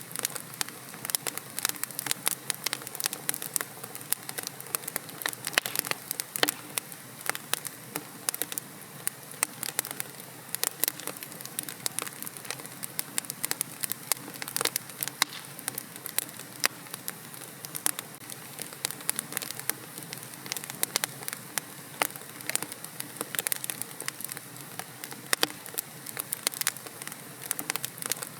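Fireplace fire crackling: irregular sharp pops and snaps, several a second and some much louder than others, over a steady soft hiss.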